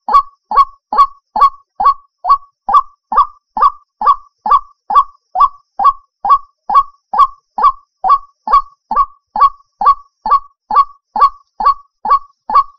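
White-breasted waterhen (ruak-ruak) calling over and over in a fast, even rhythm, about two and a half short calls a second, as a bird-trapping lure call.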